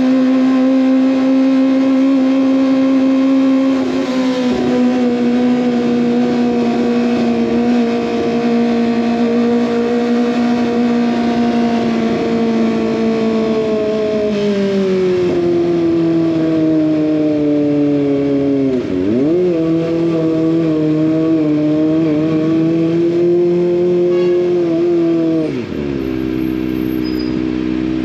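Kawasaki ZX25R's 249 cc inline-four engine through an SC-Project aftermarket exhaust, running at high revs under way. The engine note eases gradually lower, dips and recovers briefly about two-thirds through, then falls off sharply near the end.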